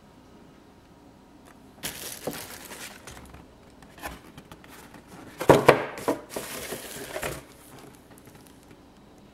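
Paper and packaging of a model kit being handled, in two spells of rustling about two seconds in and again, louder, from about five and a half seconds.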